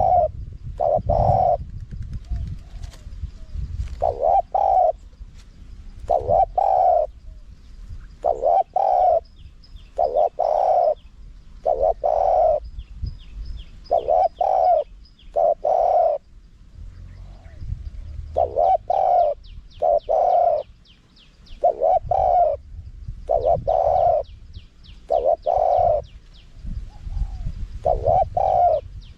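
Spotted dove cooing over and over: low coo phrases in runs of two or three notes, repeating every couple of seconds. This is the advertising call that keepers play to lure wild spotted doves in.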